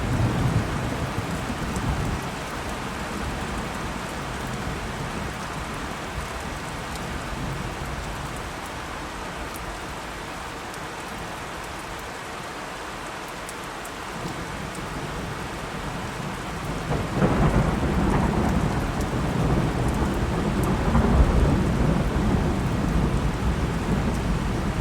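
Steady heavy rain with rolling thunder: a low rumble right at the start that fades, then a louder rumble rising about two-thirds of the way in that rolls on to the end.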